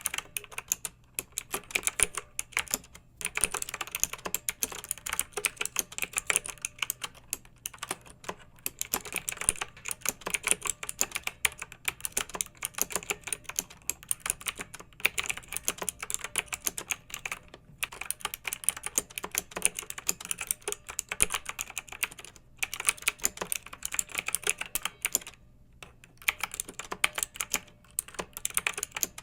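Typing on a clicky mechanical keyboard: rapid, uneven runs of keystroke clicks broken by a few short pauses.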